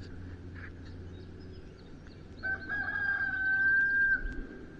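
A single long, steady high-pitched bird call lasting nearly two seconds, starting about halfway through.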